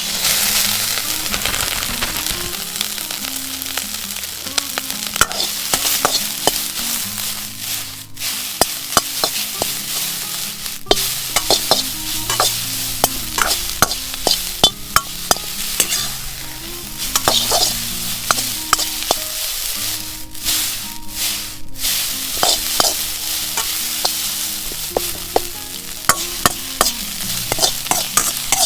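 Frozen fried rice sizzling in a wok as it is stir-fried, with the spatula scraping and clicking sharply against the wok over and over.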